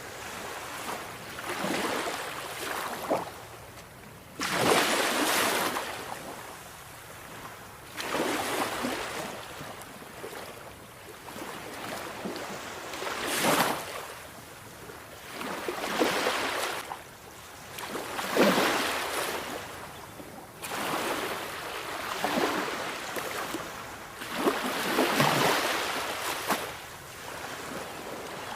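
Sea waves breaking on a shore one after another: a hissing surge of surf every two to four seconds, each washing back into a quieter rush before the next.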